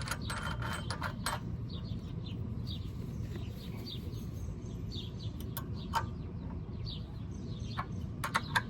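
Small birds chirping repeatedly over a steady low background hum. Scattered sharp clicks, the loudest about six seconds in and a quick cluster near the end, fit hand tools being worked on the engine.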